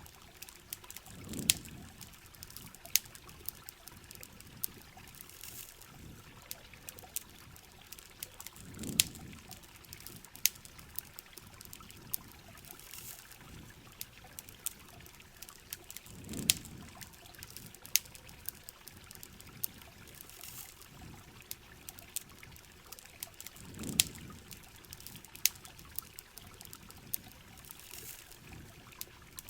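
Steady rain with the sharp crackles and pops of a campfire scattered through it, and a low swell that comes back about every seven and a half seconds.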